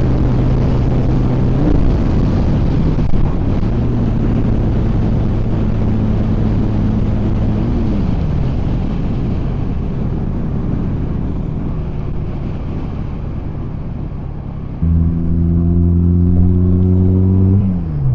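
Honda Rebel 250 motorcycle at full road speed, with loud wind rush over a steady engine drone. The engine note drops twice, about 1.5 s and 8 s in, and the wind eases as the bike slows. A louder engine note comes in sharply near the end and then falls away.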